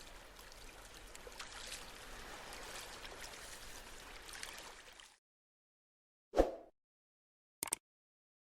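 A steady rushing noise that cuts off abruptly about five seconds in. Then comes one loud thump, and near the end a few sharp clicks.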